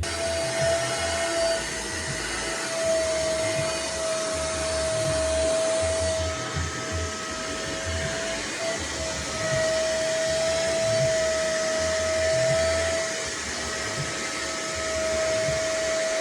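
Nunix wet and dry vacuum cleaner running steadily: a constant whine over an even rushing hiss.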